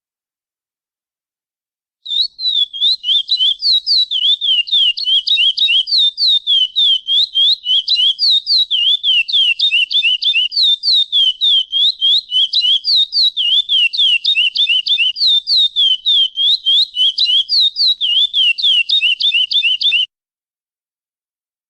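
Curió (chestnut-bellied seed finch) singing a long, fast run of high, sweeping whistled notes, about four to five a second. It starts about two seconds in and breaks off suddenly near the end.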